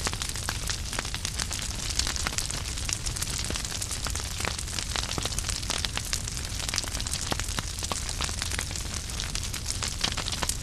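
Wood fire burning in a fireplace, logs crackling with many sharp irregular pops over a steady low rumble of flame.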